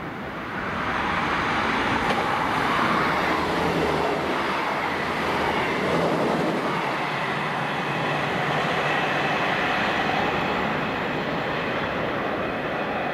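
Passenger train passing close by at speed: a loud, steady rush of wheels running on the rails that swells about a second in and holds.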